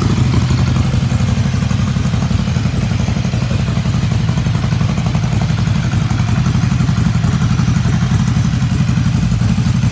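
Ducati Scrambler 800's air-cooled L-twin engine idling steadily just after start-up, through a headerback exhaust with the catalytic converter removed and a dB killer fitted.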